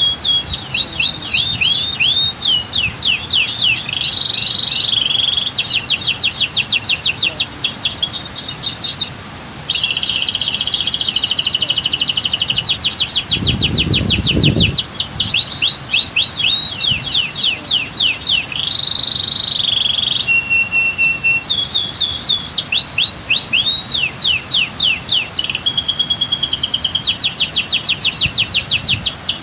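Domestic canary singing a long, continuous song of fast trills, rolling repeated notes and short held whistles, with a brief pause about nine seconds in. A low rumble lasting about a second comes about halfway through.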